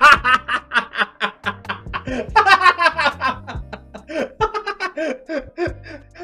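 A man laughing hard in quick repeated bursts, trailing off toward the end.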